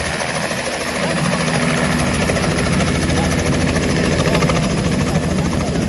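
Helicopter running close by, a steady engine drone with the fast, even chop of the rotor blades.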